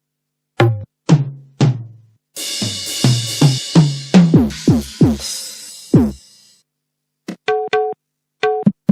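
Sampled drums from a Yamaha PSR-SX arranger keyboard: a run of deep drum strokes, each dropping in pitch, with a cymbal crash ringing over the middle of the run. After a short pause, quick pitched taps like tabla strokes start near the end.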